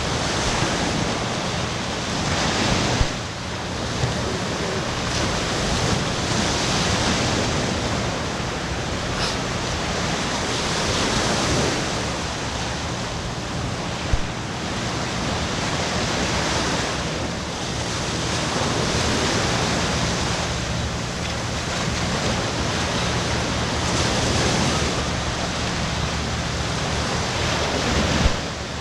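Ocean surf washing on the beach, swelling and fading every few seconds, with wind on the microphone. A few brief knocks stand out, about three and four seconds in, about fourteen seconds in, and near the end.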